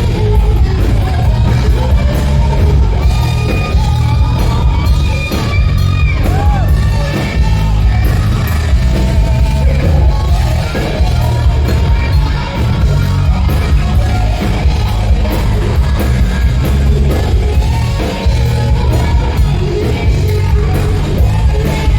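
Hard rock band playing loudly with a lead singer: drums, bass and guitars under sung, at times shouted, vocals.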